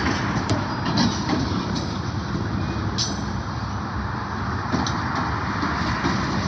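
Freight train rolling slowly past: a steady rumble of steel wheels on rail, with a few sharp clanks scattered through it.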